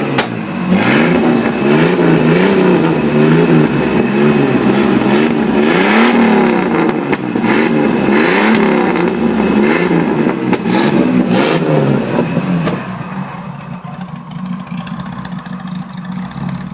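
Jeep Grand Cherokee 4.0-litre straight-six engine revved in quick blips again and again, about once a second, then dropping back to a steady idle about twelve seconds in.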